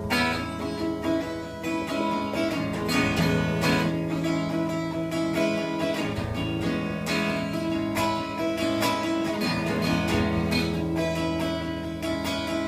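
Acoustic guitar strummed in a steady rhythm, the instrumental intro of a folk song before the vocals come in.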